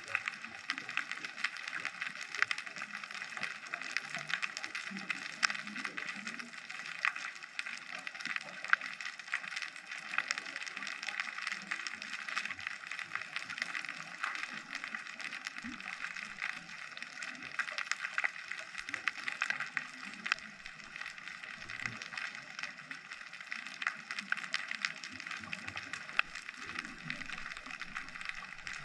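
Underwater ambience in the sea: a steady, dense crackle of countless tiny clicks, with a faint, irregular low rumble beneath.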